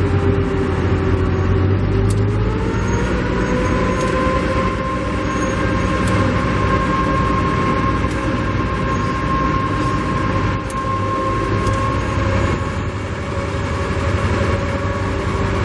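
Train running close by, loud and steady, with a machine whine whose pitch glides up about two and a half seconds in and then holds.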